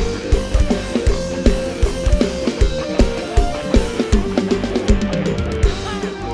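Live band music in an instrumental passage: a drum kit keeps a steady dance beat with kick drum and snare under the band's other instruments.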